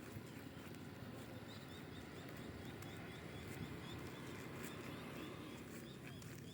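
A small bird repeating a short high chirp, about three times a second, for a few seconds over a faint steady rush of surf on the beach.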